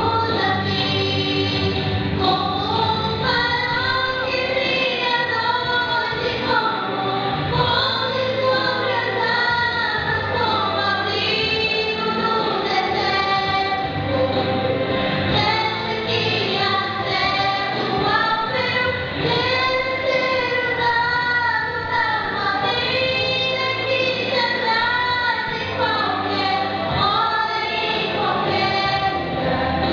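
A female vocal duo singing a gospel song over instrumental accompaniment.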